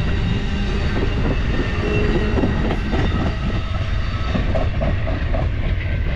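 Amtrak California Zephyr passenger train rolling at speed: a steady low rumble with the clickety-clack of wheels over rail joints.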